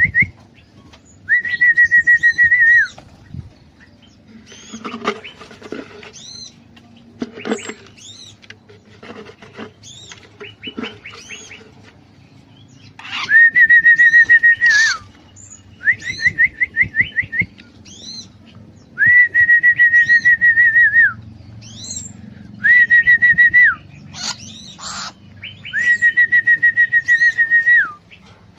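Loud whistled phrases near one pitch repeat every few seconds. Some are long level whistles of one and a half to two seconds; others are quick runs of rising notes, about eight a second. Small bulbuls chirp briefly in the gaps, with light clicks and rustles.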